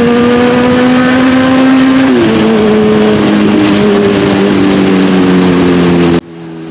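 Kawasaki Z1000R's inline-four engine on the move, its note climbing slowly, then dropping sharply about two seconds in and running on at a lower, steady pitch. The sound cuts off abruptly about six seconds in.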